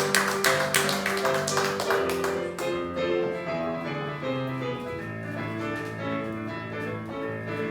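Audience applause that dies away about two and a half seconds in, over a piano playing held chords, which then carries on alone.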